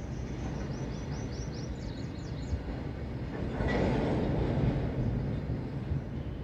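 Freight train's covered wagons rolling past with a steady low rumble of wheels on rails. A high-pitched wheel squeal sounds for the first couple of seconds, and the rumble swells louder about halfway through.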